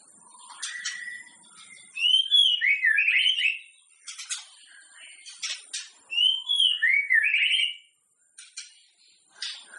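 White-rumped shama (murai batu) singing: two loud whistled phrases about four seconds apart, each a swooping glide followed by a quick trill, with short sharp notes between them.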